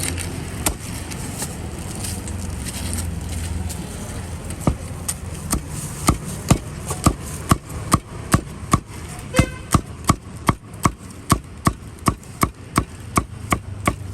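Cleaver chopping roast meat on a chopping board: sharp, even strokes that start about five seconds in and settle into a steady beat of roughly two to three a second.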